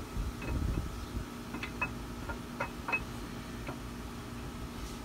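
Light metallic clicks and small knocks, half a dozen scattered over a few seconds, with low handling rumble at the start, as the camshaft of an LS V8 is twisted and slid out through its bearings in the block.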